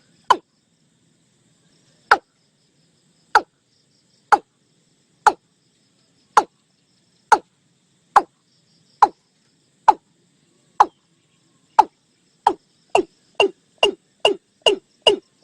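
Watercock (Gallicrex cinerea) calling: a series of short, sharp notes, each dropping quickly in pitch, about one a second, then speeding up to two or three a second near the end.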